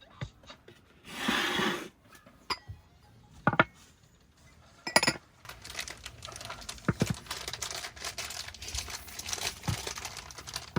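Crinkly rustling, as of plastic or a bag being handled, with scattered sharp knocks and small clinks of objects being set down; the rustling is continuous through the second half.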